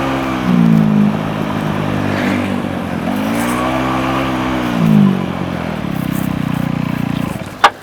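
Engine revving sound, its pitch dipping and rising twice, then a rougher, lower run before a sharp click near the end.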